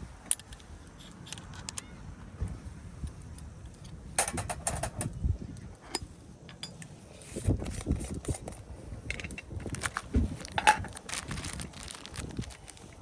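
Irregular clicks, clinks and clatter of small hard objects being handled, over a low rumble.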